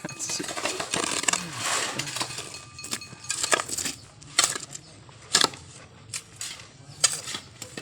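A series of sharp, irregular knocks or clinks, about seven over five seconds, with low voices in the first couple of seconds.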